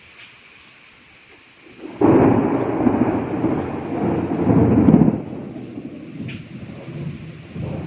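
Thunder rumbling in a rainstorm. A loud peal breaks out suddenly about two seconds in, rolls for about three seconds and fades, and a smaller rumble follows near the end, over a steady hiss of rain.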